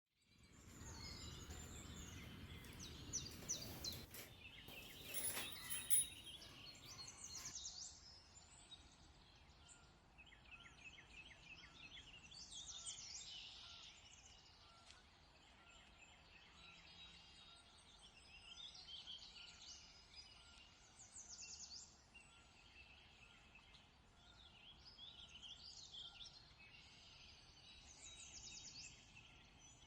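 Faint outdoor birdsong: small birds chirping in short repeated phrases on and off over a low background hiss, with a few brief louder noises in the first several seconds.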